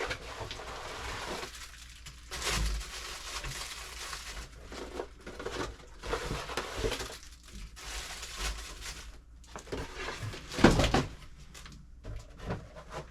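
Pantry items being handled and sorted: plastic and cardboard packages rustling and crinkling, with items knocked and set down on shelves, and one loud knock toward the end.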